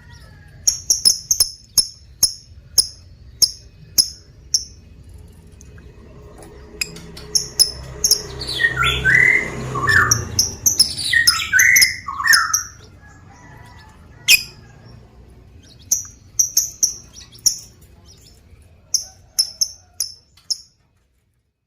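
Lovebirds calling: runs of short, shrill, rapid chirps, with a burst of lower calls falling in pitch in the middle. The sound cuts off abruptly near the end.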